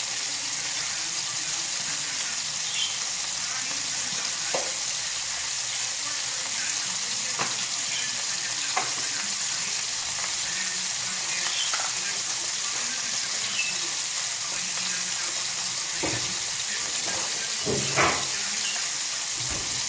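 Food frying in a pan on a gas stove, a steady sizzling hiss, with a few scattered clicks and knocks, the loudest near the end.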